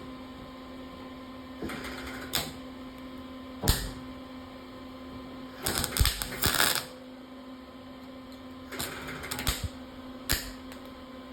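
Old wire-feed (MIG) welder arc crackling in short, stop-start bursts as holes in sheet-metal body panel are plug-welded, the longest burst lasting about a second, over a steady low hum. The arc keeps stopping and starting, the wire not wanting to stick against the aluminum backing; sometimes it welds, sometimes it don't.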